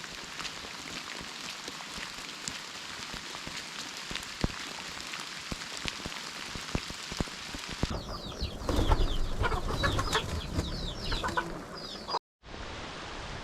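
Steady rain falling, with scattered individual drops ticking. About eight seconds in, birds start calling in a rapid series of short chirps over the rain for about four seconds before the sound cuts out briefly.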